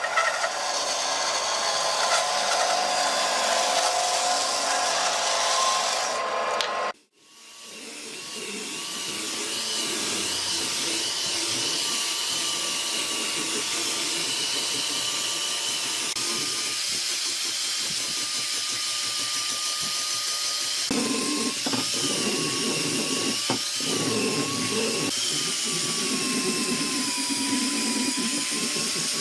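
Woodworking power tools running on wood, with rough cutting or abrading noise. The sound breaks off suddenly about seven seconds in. It then resumes as a motor's steady, slightly wavering whine, with the cutting noise growing heavier about two-thirds of the way through.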